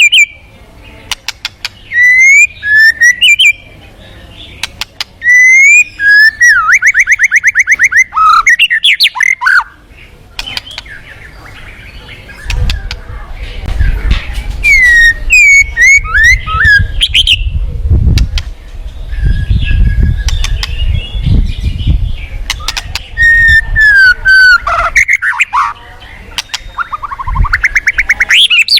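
White-rumped shama singing in loud, varied phrases: clear whistles that swoop up and down, fast buzzy trills and sharp clicking notes, with short pauses between phrases. A low rumble runs underneath through the middle of the stretch.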